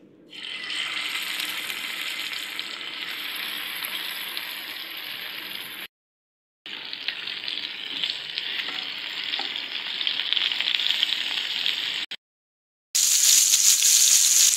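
Marinated quail pieces sizzling as they shallow-fry in hot oil in a pan. The sizzle cuts off abruptly twice and resumes, louder near the end.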